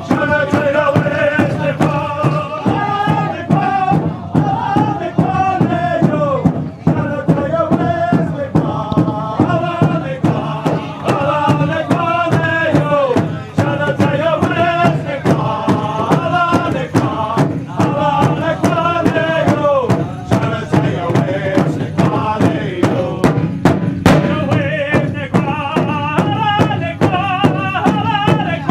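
Pow-wow drum song: voices chanting in unison over a steady drumbeat of about three beats a second.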